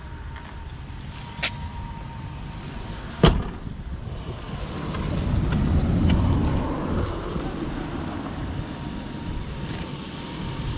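SUV's petrol engine idling with a low, uneven rumble: it is misfiring slightly on one cylinder, which the seller puts down to the car having stood unused for a long time. A sharp knock comes about three seconds in, and the rumble grows louder for a couple of seconds midway.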